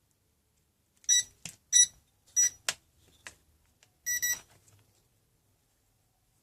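Short single-pitch electronic beeps from a brushless boat ESC, sounded through the motor: four beeps over about three seconds, with a few sharp clicks between them.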